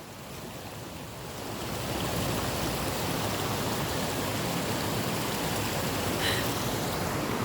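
Mountain stream water rushing steadily, swelling over the first two seconds and then holding even.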